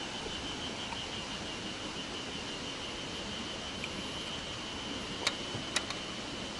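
Steady outdoor hiss with a thin, unbroken high-pitched tone, and two light clicks about half a second apart near the end.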